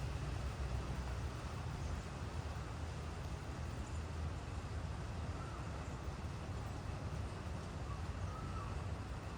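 Steady rain falling, an even hiss over a low rumble, with two faint bird calls in the second half.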